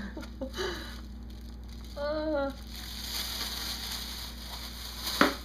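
Crinkling and rustling, most likely food being handled into a plastic bag, with a short voiced sound about two seconds in and a single sharp knock near the end.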